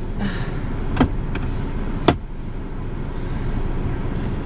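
Steady low rumble inside a car, with two sharp clicks, about one and two seconds in.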